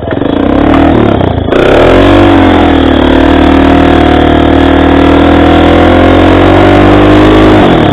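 Motorcycle engine revving hard. Its pitch wavers and dips in the first two seconds, then it is held at steady high revs and drops away suddenly near the end.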